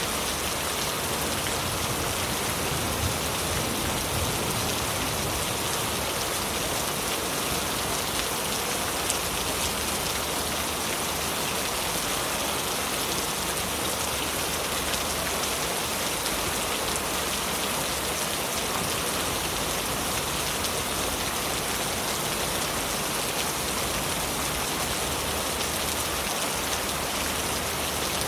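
Heavy rain falling steadily, a dense, even hiss of countless drops with fine pattering.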